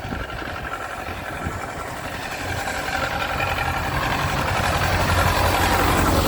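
Snow-clearing tractor's engine running steadily, growing louder over the seconds.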